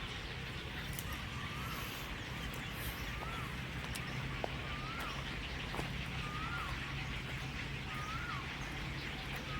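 A bird calling a short rising-then-falling note again and again, about once a second, over a steady hiss.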